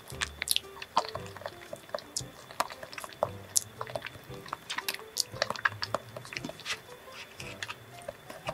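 Close-up eating sounds of soft mango-topped milk-cream cake: wet chewing and lip smacks, with many short irregular clicks. Soft background music runs underneath.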